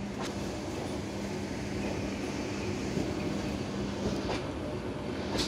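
A suburban electric train running, heard from aboard: a steady rumble with a low hum, and a few sharp clacks of the wheels over rail joints.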